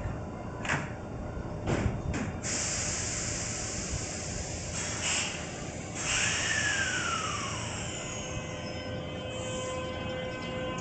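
Kintetsu 22000 series electric limited express train getting ready to leave: a few sharp knocks, then loud bursts of air hiss and a whine that falls in pitch. About three quarters of the way through, steady electric tones from the traction equipment begin as the train starts off.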